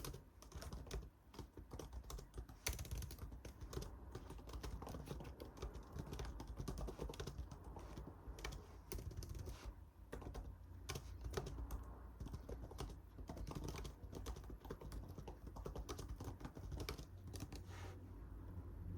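Typing on a computer keyboard: a steady run of quick, irregular key clicks.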